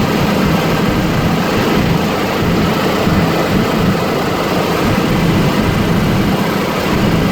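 Helicopter running steadily: a loud, even drone of engine and rotor noise.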